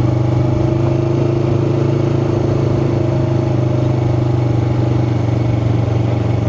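Yamaha R3 motorcycle's parallel-twin engine running at a steady engine speed, with no revving, heard from the rider's helmet.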